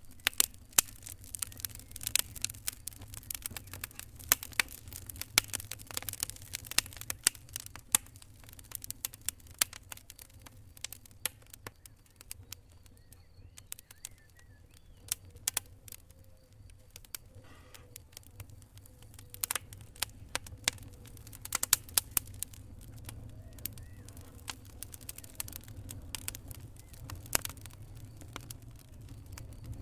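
Wood fire in a fireplace crackling: irregular sharp pops and snaps, denser in the first half, over a low steady rumble of the burning fire.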